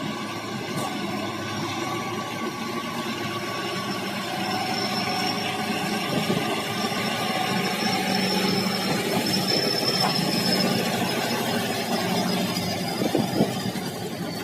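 KrAZ-260 army truck's V8 diesel engine running steadily, growing a little louder through the middle, with a few sharp knocks near the end.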